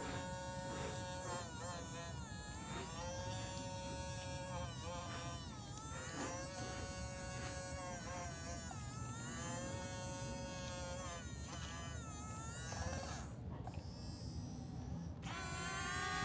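Small electric motors of a toy excavator whining in a string of short runs, each lasting one to two seconds and bending in pitch as it starts and stops. A louder whine sets in near the end.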